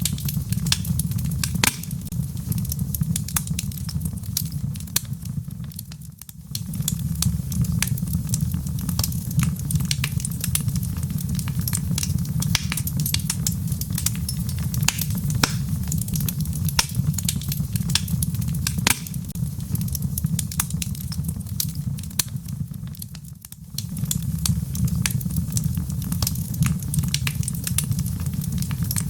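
Wood fire in a fireplace, burning with a steady low rumble and constant sharp crackles and pops. The rumble fades out briefly twice, about six seconds in and again near the end.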